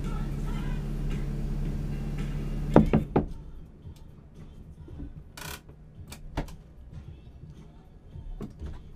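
A car engine idling, heard from inside the cabin, cuts out about three seconds in with a few loud clunks. After that the cabin is quieter, with scattered light knocks and clicks and a short hiss.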